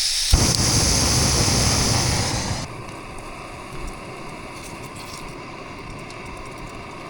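Portable camp gas stove burning with a steady hiss under a pot of chili. The hiss is loud for the first two and a half seconds, then drops suddenly to a quieter, lower hiss.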